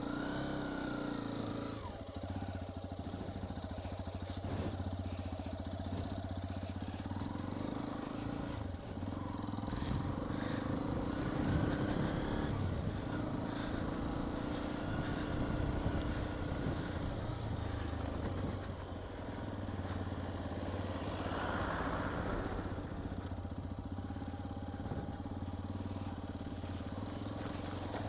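Hero XPulse 210 motorcycle's single-cylinder engine running steadily while ridden off-road, with scattered knocks and rattles over the ground.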